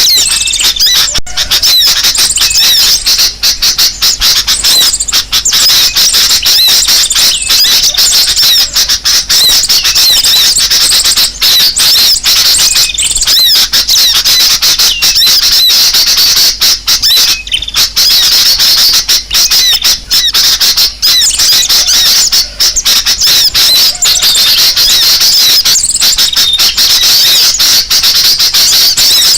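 A dense, continuous chorus of many small birds chattering and squeaking in high-pitched, agitated calls: a bird-lure recording of noisy birds, played to draw other birds in.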